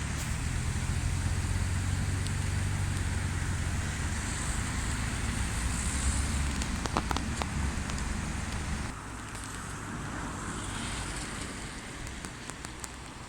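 Steady rush of the flooded Tâmega river, with wind buffeting the microphone in a heavy low rumble that eases about nine seconds in; a few light taps near the middle.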